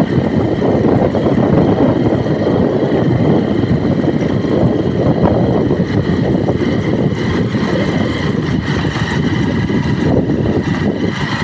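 A vehicle running steadily, its noise loud and even, with a faint steady high whine over it.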